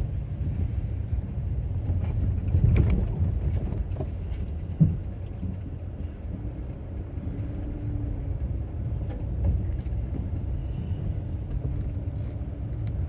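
Van driving along a rough road, a steady low rumble of engine and tyres heard from inside the cabin, with a louder clattery stretch about three seconds in and a single sharp knock about five seconds in.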